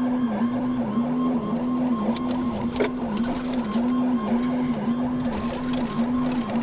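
Police siren cycling in a fast, steady warble, about two cycles a second, heard from inside a patrol car over engine and road noise. There is a short click a little before the middle.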